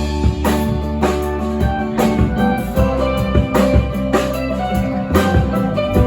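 Live band playing an instrumental break: guitar lead over bass and a drum kit keeping a steady beat.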